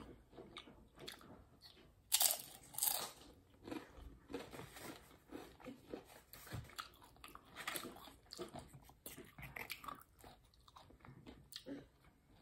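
Crunching and chewing of tortilla chips dipped in guacamole: a loud crunchy bite about two seconds in, then steady, irregular chewing crunches.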